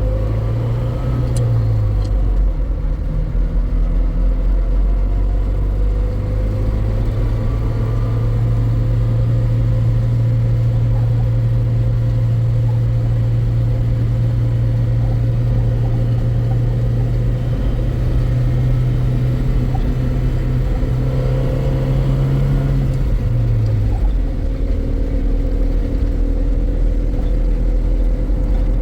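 A vehicle engine running with a steady low rumble. Its pitch shifts briefly about a second in and again about 24 seconds in.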